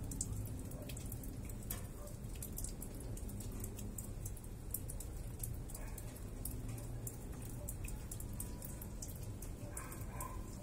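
Rain dripping during a thunderstorm: irregular light ticks of falling drops over a steady low background noise.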